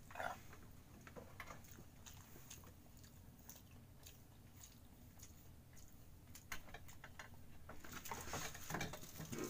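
A person chewing food: faint wet mouth clicks and smacks, growing louder and busier near the end.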